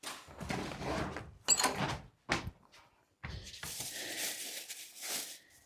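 Household handling noises: a sharp door- or cupboard-like knock about one and a half seconds in, then a stretch of rustling as things are fetched and handled.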